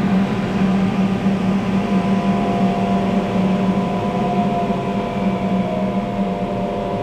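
Electric blower fan for a homemade forge running steadily, a motor hum with a whine that shifts slightly in pitch about halfway through.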